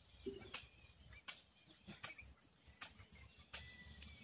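Faint outdoor quiet with distant birds chirping now and then, a thin whistled note near the end, and a few sharp clicks.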